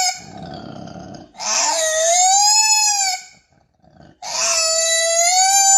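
An animal's calls: a short rough call, then two long drawn-out cries, the first dipping and rising in pitch and the second held nearly level.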